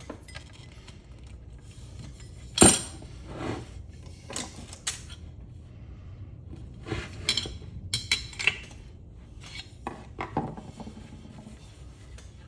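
Metal clinks and knocks from handling and turning a ceiling fan's motor housing and parts while taking it apart: one sharp clank about two and a half seconds in, then scattered irregular clinks and rattles.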